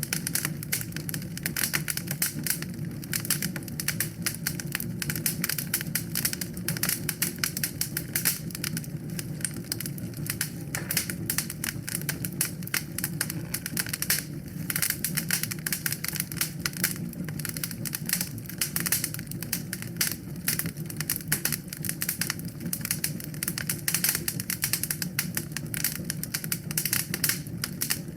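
Wood fire burning in a fireplace: dense, rapid crackling and popping over a steady low rumble of the flames.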